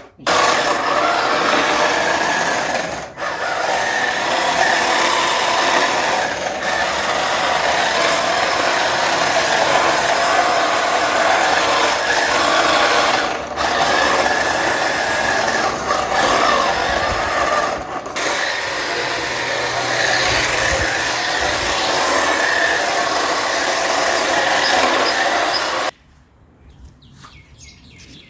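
Cheap RC drift truck being driven: its electric motor and drivetrain whining continuously with wavering pitch, briefly interrupted a few times, then falling much quieter near the end. At this stage it is in rear-wheel-drive form but is not yet drifting properly.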